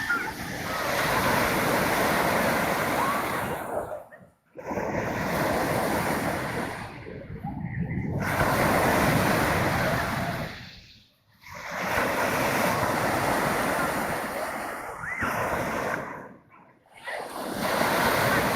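Black Sea surf: a steady hiss of breaking waves that swells and fades, dropping away almost completely four times between waves.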